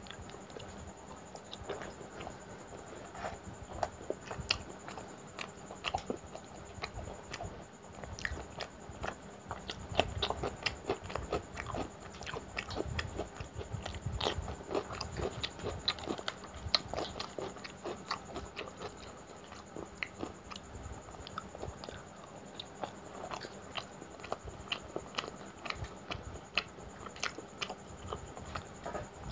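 Close-miked mouth sounds of a man eating by hand: wet, irregular chewing and lip-smacking on soft luchi soaked in mutton curry, with crisper biting of a raw cucumber slice around halfway through.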